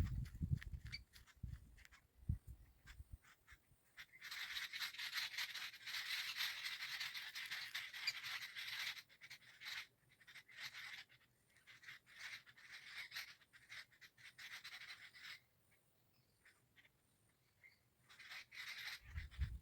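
Pet parrots chattering in long scratchy stretches of high-pitched calls, with a few low bumps in the first few seconds.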